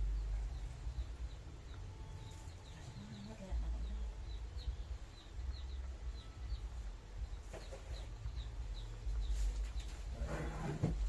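Chickens calling: a run of short, high peeping chirps, about three a second, with a lower call near the end, over a steady low rumble.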